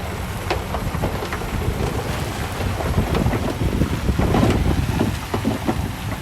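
Heavy earthmoving machinery running with a low diesel rumble, with scattered clanks and knocks that grow denser and louder midway through. Wind is on the microphone.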